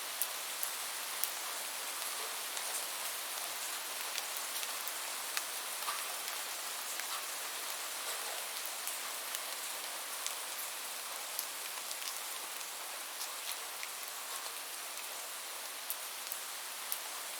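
Steady rain falling, an even hiss with scattered individual drops ticking sharply throughout.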